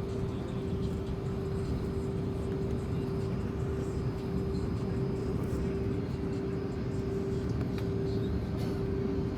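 Airbus A330-300 passenger cabin noise: a steady rush of air with a constant hum.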